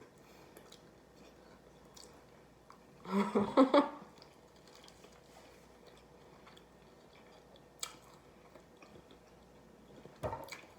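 Quiet chewing and mouth sounds of someone eating, with small clicks, broken by a short loud burst of voice about three seconds in and a knock near the end.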